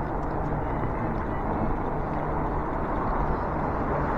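Steady rushing wind and road noise from a moving e-bike, with a faint low hum under it.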